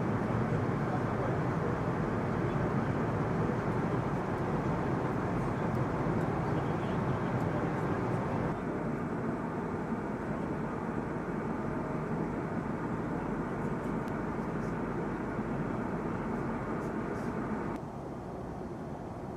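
Fighter jet in flight: a steady, dense rushing noise of engine and airflow, dropping abruptly to a lower level about halfway through and again near the end.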